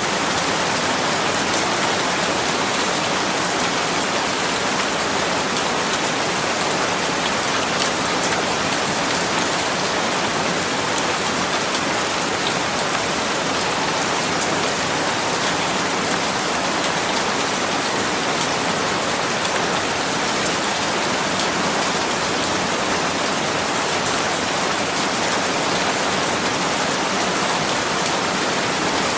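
Steady rain falling on a surface, a dense even hiss with fine scattered drop ticks.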